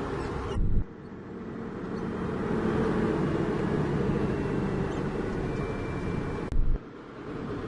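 Heavy diesel engine running steadily, with a deep low rumble that breaks off abruptly with a short loud bump about half a second in and again near the end.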